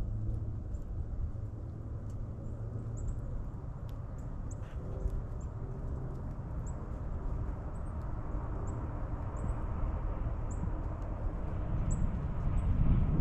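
Small birds giving short, high chirps again and again at the feeders, over a steady low rumble that swells near the end.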